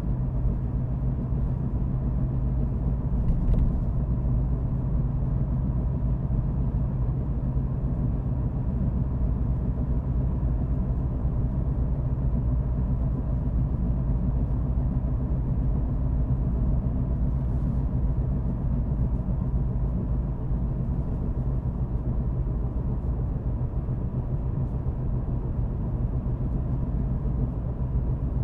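Car driving at a steady pace: a steady low rumble of engine and road noise with no change in speed, and a faint click about three and a half seconds in.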